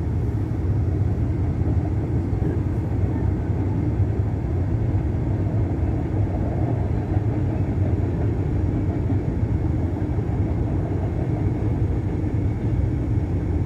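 Long freight train rolling past, a steady low rumble heard from inside a car.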